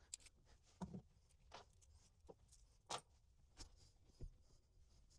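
Faint, scattered light clicks and knocks, about one every two-thirds of a second, from hands handling interior panel parts and mounting hardware.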